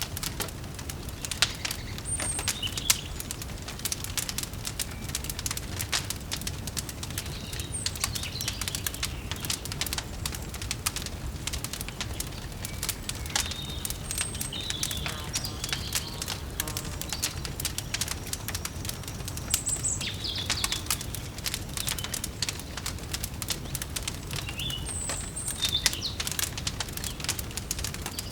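Wood fire crackling with dense, irregular pops over a low steady rumble, while small birds chirp now and then in short high calls.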